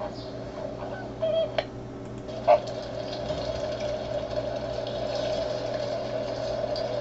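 Flamingos calling: a couple of short honks about a second in and a louder single honk about two and a half seconds in, over the steady babble of the flock.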